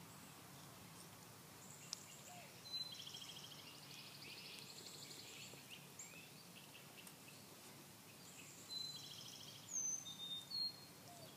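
Faint outdoor background of birds chirping and trilling, with a few short whistled notes near the end.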